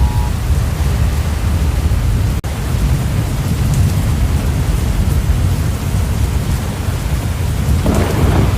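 Severe thunderstorm noise: a loud, steady low rumble of wind and storm, with rain coming in more strongly near the end. The sound drops out for a moment about two and a half seconds in.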